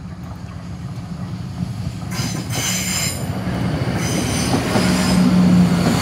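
Class 170 Turbostar diesel multiple unit approaching and running over the level crossing, getting steadily louder. A high-pitched wheel squeal comes about two seconds in, and a steady engine drone stands out near the end.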